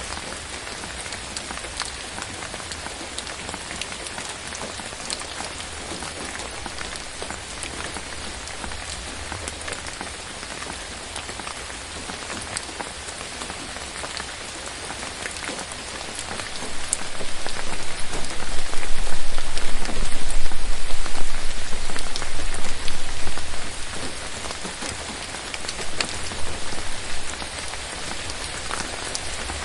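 Steady rain falling on forest foliage: a dense, even hiss with scattered single drops ticking. About halfway through, a deep low rumble swells for several seconds and then fades, with a smaller swell near the end.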